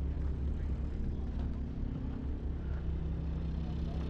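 Steady, unchanging low hum of an idling engine.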